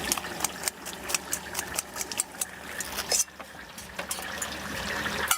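Stinky tofu stall at work: a steady hiss of frying with many sharp clicks and clinks, several a second.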